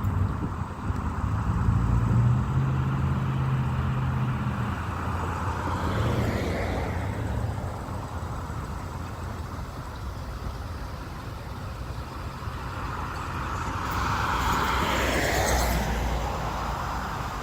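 Baltimore Metro Subway railcars moving in the rail yard: a steady low hum, then a whine that sweeps down in pitch twice, once about six seconds in and again near the end, as the sound swells.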